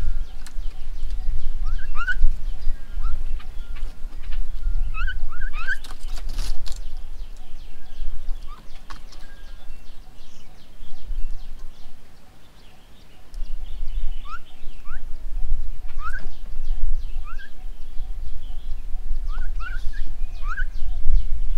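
Birds at a garden bird table calling in short, rising chirps, often two or three in quick succession, with a brief rustling burst about six seconds in, over a steady low rumble.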